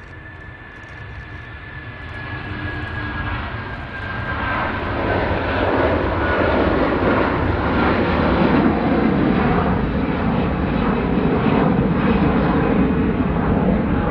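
Jet airliner passing close, its engine noise building over the first six seconds and then staying loud. A high whine slowly falls in pitch during the build-up.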